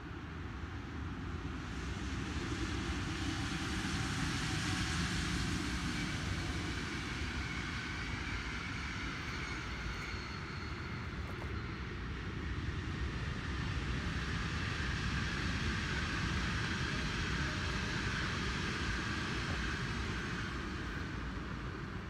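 Electric passenger trains passing at speed: a steady rush of wheels on rails that swells twice, with faint whines above it.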